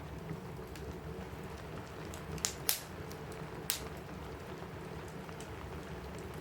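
Steady rain with a low rumble under it, and a few sharp crackles from a wood fire in a fireplace, the loudest pops coming about two and a half and nearly four seconds in.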